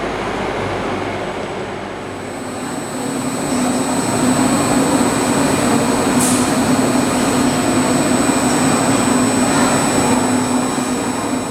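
Train running, a steady rumble with a low hum that grows louder about three seconds in.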